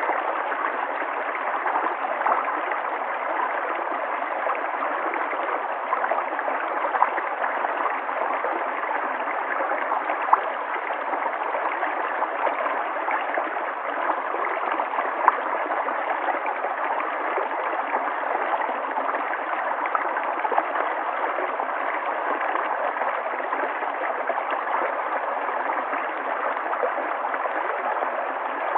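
River water flowing and gurgling in a steady, even rush with small splashes here and there.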